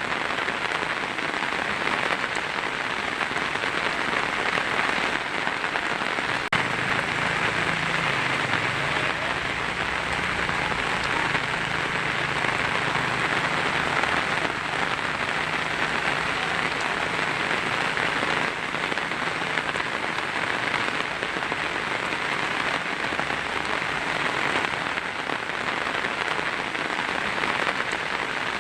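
Heavy rain drumming steadily on a tin roof.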